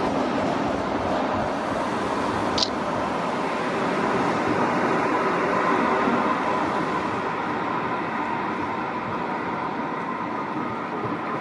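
Train moving through the station, a steady rumble of wheels on rails, with a short high squeak about two and a half seconds in.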